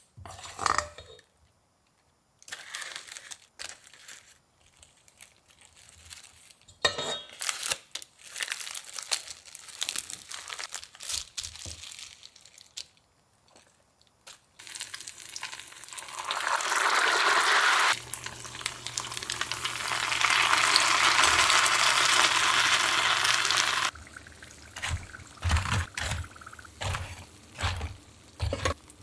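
Kitchen food-preparation sounds: scattered clicks, knocks and rustling of handled items. About halfway through comes a loud, steady hiss lasting about eight seconds, joined partway by a low hum, then more scattered knocks.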